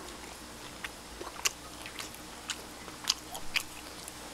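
Someone chewing roast duck with aged kimchi close to the microphone: a handful of short, sharp wet mouth clicks and smacks, with the strongest a little over a second in and again about three seconds in.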